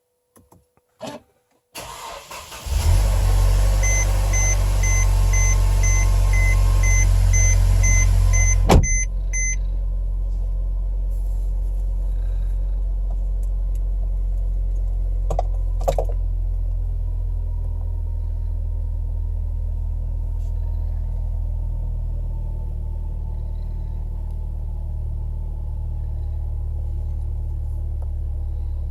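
Mercedes-Benz C250 engine started after an oil change: a brief crank, then it catches and runs at a loud fast idle while a string of short warning beeps sounds. About nine seconds in, with a click, it settles to a quieter steady idle.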